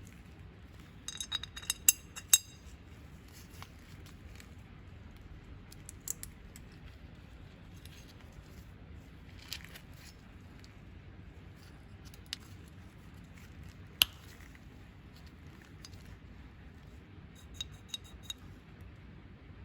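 Small metal parts clinking and clicking against each other and a hard surface as they are handled, with a quick run of ringing clinks about a second in, scattered single clicks after, one sharp click about two-thirds through, and a few more clinks near the end.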